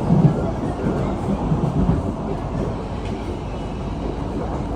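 SMRT C151A metro train running between stations, heard from inside the carriage: a steady rumble of the train in motion.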